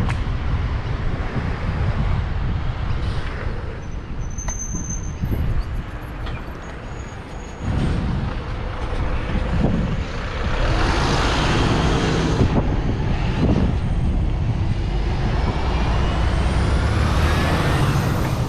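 Wind buffeting the microphone during a bike ride, with road vehicles passing: a broad swell of traffic noise about two-thirds of the way through and a rising whine near the end.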